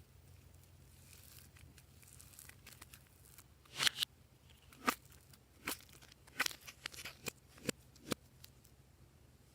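Glossy slime being worked by hand: a soft rustle at first, then a run of sharp pops and crackles for about four seconds from roughly four seconds in.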